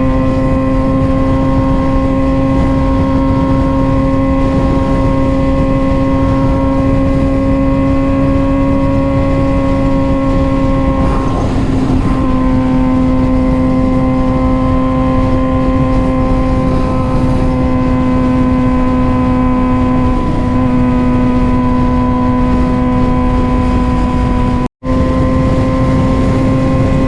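Suzuki GSX-R600 inline-four engine running at a steady, fairly high pitch while the bike cruises. The pitch shifts slightly about halfway through and again later. The sound cuts out for an instant near the end.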